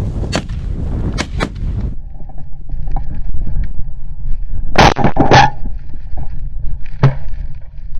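Several shotgun shots from more than one hunter firing at decoying mallards: sharp reports spaced over the seconds, with a heavier cluster about five seconds in. A steady low rumble of wind on the microphone runs underneath.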